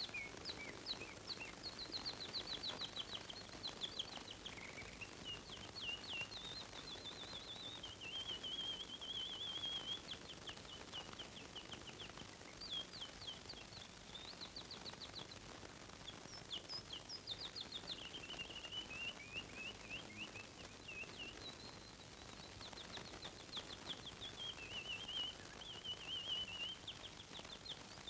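A small songbird singing: high runs of rapid chirps and trills with short pauses between phrases, over a faint hiss.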